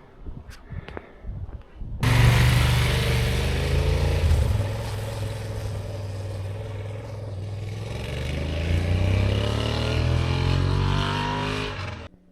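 Motor vehicle engine running under way, with a steady hiss over it. It starts abruptly about two seconds in, rises in pitch as it accelerates near the end, and cuts off suddenly.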